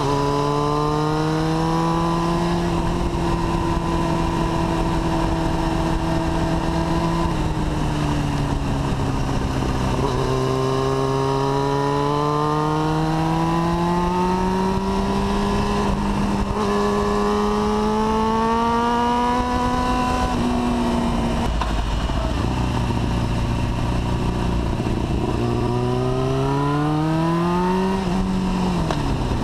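Yamaha YZF-R6's inline-four engine running under way as the motorcycle is ridden, its pitch holding steady, climbing slowly and dropping several times with throttle and gear changes, then falling sharply near the end. Wind rushes steadily over the microphone beneath it.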